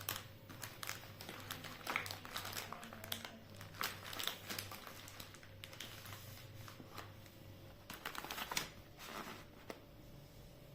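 Hands handling and rustling light household materials during a craft job, with irregular small clicks and taps, busier a few times.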